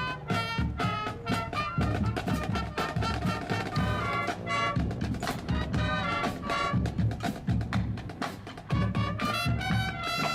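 A band with brass and a drum kit playing an upbeat, swing-style tune, the drums keeping a steady beat under the horns.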